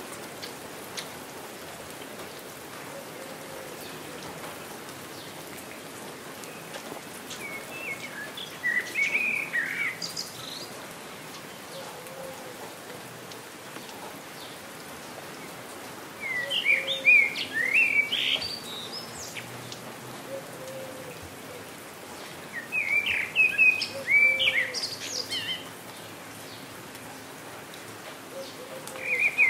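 Steady rain falling, with songbirds singing over it in short bursts of quick chirps: the first about eight seconds in, then again around sixteen and twenty-three seconds, and once more near the end. The birdsong bursts are the loudest sounds.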